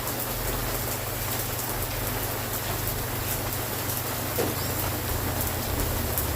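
Steady rain falling, an even hiss with scattered sharp drop ticks, over a low steady hum.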